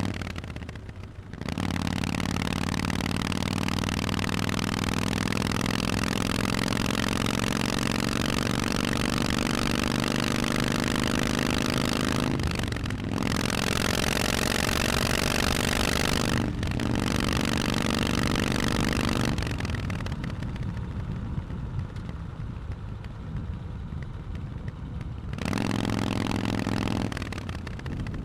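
Harley-Davidson Forty-Eight's air-cooled 1200 cc V-twin through Vance & Hines exhausts, under way: the engine pulls with its pitch slowly rising, cutting out for a moment at each gear change. About two-thirds through it goes quieter and duller off the throttle for several seconds, then pulls hard again near the end.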